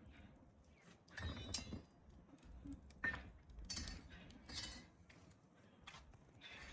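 A few short knocks and clinks of kitchen handling, about four in all, with the first coming about a second in.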